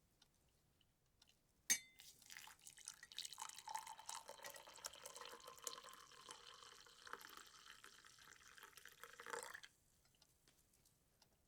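Liquid being poured into a glass, starting just after a sharp click and cutting off abruptly after about eight seconds.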